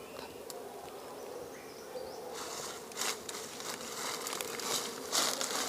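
A honeybee colony buzzing steadily as the bees are handled and moved into a hive box, with rustling handling noises from about two seconds in.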